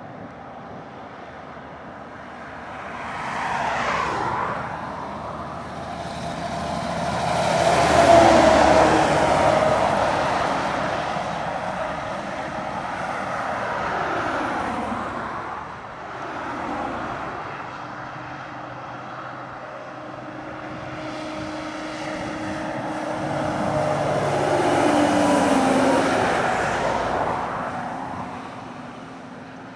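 Heavy lorries labouring up a steep climb under load, passing one after another, the engine note of each falling in pitch as it goes by, with tyre noise; the loudest pass comes about eight seconds in.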